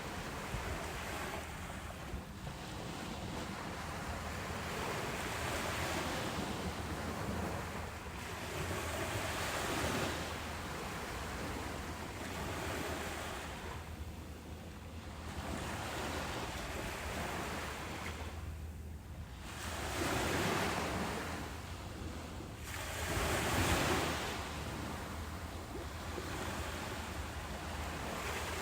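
Ocean waves breaking on a beach, rising and falling in swells every few seconds, with the louder breakers about a third of the way in and twice more later on.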